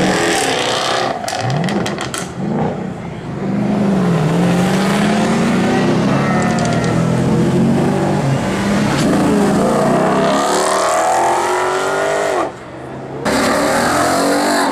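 Performance car engines revving hard and accelerating away, the engine note climbing again and again as they pull through the gears. A quick string of sharp cracks comes about a second in, and the sound dips briefly near the end before coming back loud.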